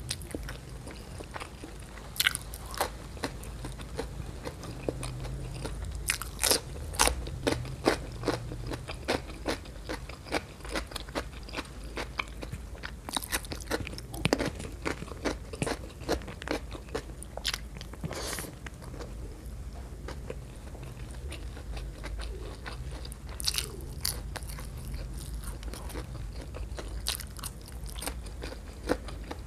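A person chewing and biting food close to the microphone, with many irregular sharp, crisp crunches bunched in clusters every few seconds.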